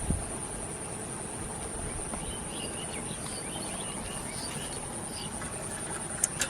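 Insects, crickets or cicadas, droning steadily in a high, even pitch, with faint scattered chirps in the middle and a low knock right at the start.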